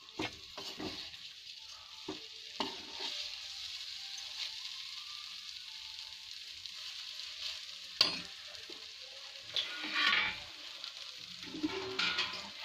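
Vermicelli and spice paste sizzling in oil in a kadhai while a slotted spatula stirs and scrapes through it, with scattered knocks of the spatula against the pan, the sharpest about eight seconds in.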